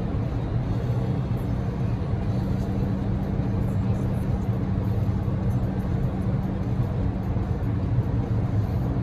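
Steady road and engine drone heard from inside a Daihatsu Move (L150S) cabin while driving, with a constant low hum and rain ticking on the car's body.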